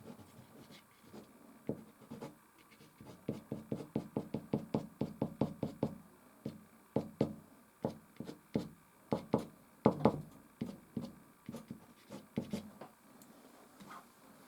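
Soft pastel stick dabbing and rubbing on a stretched canvas in short, knocking strokes. A quick, even run of about five strokes a second lasts a few seconds, then the strokes come more irregularly.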